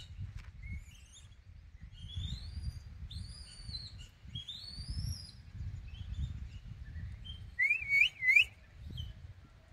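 Birds calling: several clear whistled notes that rise and fall in the first half, then the loudest, a quick warbling two-part call a little before the end, over a low rumble.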